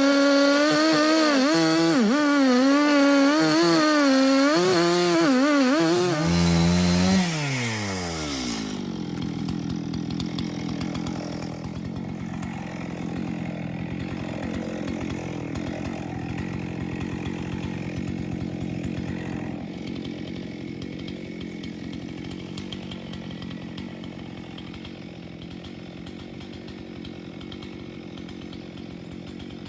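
Chainsaw at high revs cutting into a dead ash tree, its pitch wavering as the load changes. About seven seconds in the throttle is released and the revs fall away to a steady idle that slowly grows fainter.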